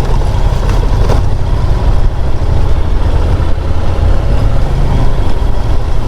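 Steady loud rumble of wind rush and engine noise from a Honda NC750 DCT motorcycle under way, heard on the rider's helmet microphone.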